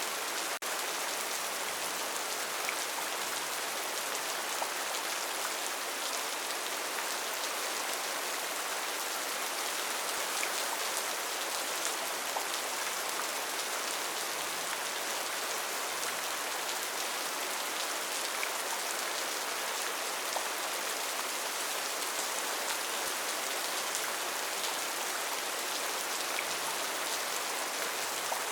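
Steady rainforest rain: an even hiss of falling rain with scattered individual drop ticks.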